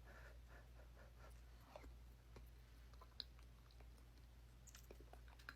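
Near silence with faint, scattered clicks and soft mouth and utensil sounds of eating, over a low steady hum.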